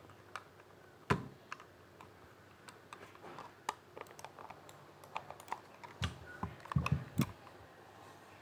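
Irregular small plastic clicks and taps, as of computer hardware being handled and clicked, with a cluster of heavier knocks about six to seven seconds in.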